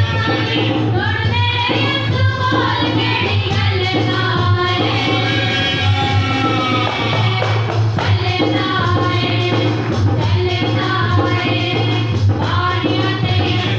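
Punjabi Christian worship song: voices singing the melody over instrumental backing with a steady beat.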